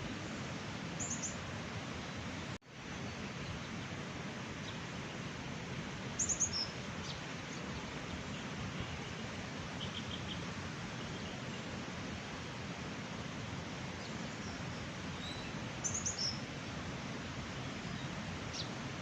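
Small birds give short, high chirps a few times over a steady rushing outdoor background noise. The sound cuts out for an instant about two and a half seconds in.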